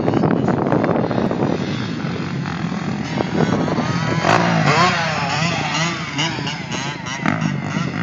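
Motocross motorcycle engines revving hard, their pitch rising and falling with the throttle, loudest around the middle.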